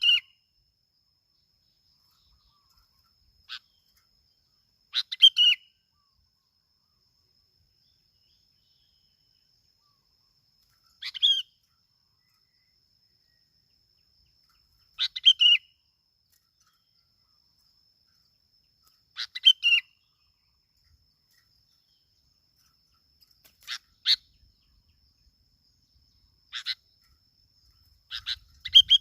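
Bulbul (bông lau) calling: short chirpy phrases repeated about every four to six seconds, with silence between them. A faint steady high tone runs under the calls.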